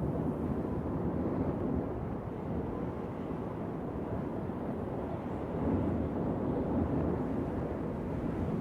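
Wind blowing steadily, a low rushing noise with a slight swell about six seconds in.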